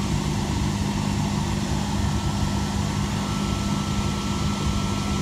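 Stainless-steel double-deck electric commuter train moving slowly past the platform: a steady low rumble with an even hum from its running gear and equipment.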